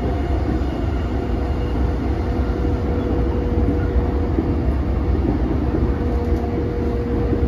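Running noise heard from inside a JR East E233-5000 series electric commuter train travelling between stations: a steady rumble of wheels on rail with a constant hum.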